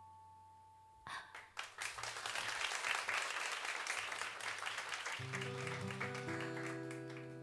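The last chord of a live song fades out, then an audience breaks into applause about a second in. Near the end, new sustained instrument notes come in under the clapping.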